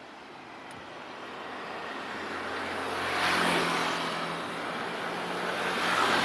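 A train approaching, its rushing running noise and low steady hum growing louder, with a first peak about three seconds in and a second near the end.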